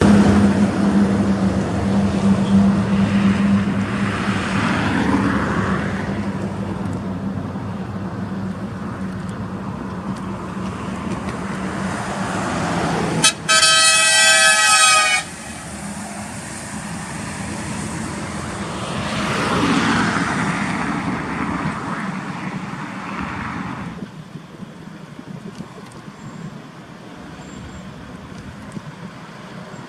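Heavy trucks driving past with diesel engine hum and road noise, swelling as they pass. About halfway through a truck's air horn sounds one loud blast of several tones at once, lasting about two seconds.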